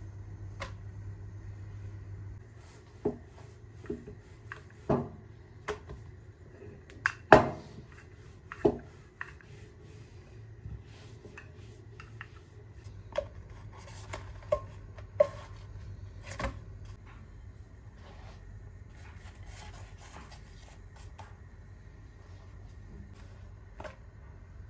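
Kitchen work: irregular knocks and clinks of utensils and dishes being handled, about a dozen in all, with the loudest knock about seven seconds in. The knocks stop after about sixteen seconds, and a steady low hum runs beneath them.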